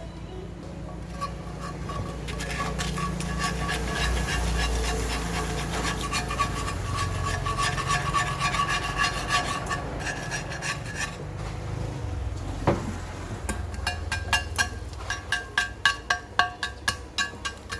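Rubbing and scraping of a hand tool worked against a part, with one sharp click past the middle and a run of quick clicks, about three a second, near the end.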